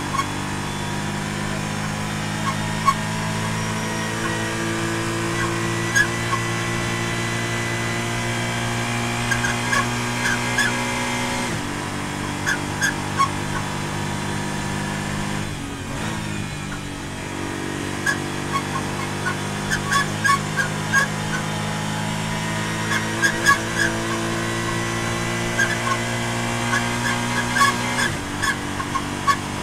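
Porsche GT4's flat-six engine at full throttle, heard from inside the cabin, held at high revs. About twelve seconds in it drops in pitch with an upshift. Around sixteen seconds it lifts briefly and blips down a gear, then pulls hard again and lifts near the end. Short clicks and rattles are scattered over the engine sound.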